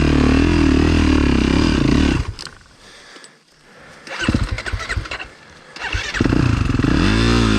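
Motocross bike engine running, then stalling about two seconds in. After a couple of seconds with much less sound it fires unevenly in a few knocks, catches again and revs up and down near the end.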